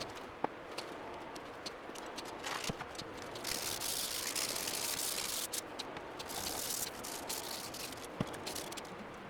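Aerosol spray-paint can spraying in short bursts, a brief one, then a longer hiss of about two seconds, then a shorter one, with scattered light clicks in between.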